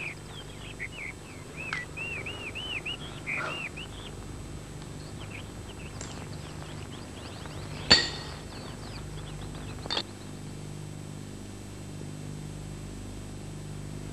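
Small birds chirping in a quick run of repeated chirps for the first few seconds. Then a few sharp clinks follow, the loudest about eight seconds in, over a faint low hum.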